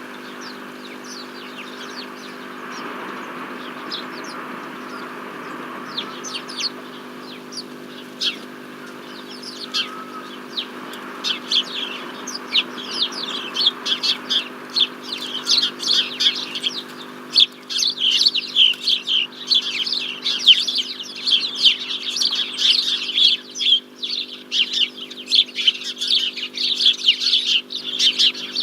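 Small songbirds chirping: scattered short, high chirps at first, then a dense, almost unbroken run of them from about twelve seconds in. A steady low hum runs underneath.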